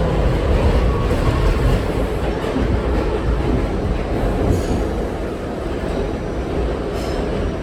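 R68 subway train running on the track, heard from on board: a steady rumble of wheels and running gear, with a couple of faint clacks from the rails in the second half.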